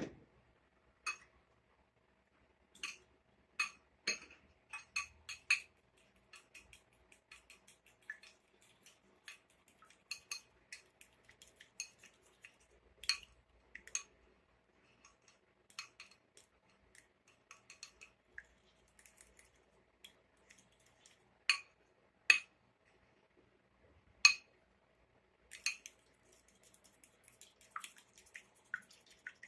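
Kitchen utensils clinking and tapping against dishes in irregular sharp clicks, with a few louder knocks a little past the middle. A faint steady hum sits underneath.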